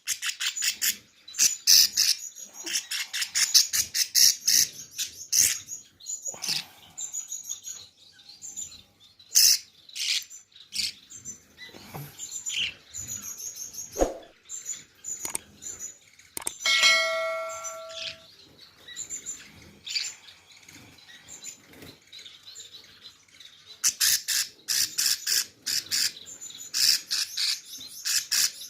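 Baby cage birds chirping in fast, dense runs of high calls, quieter for a few seconds past the middle, with a short steady pitched tone about 17 seconds in.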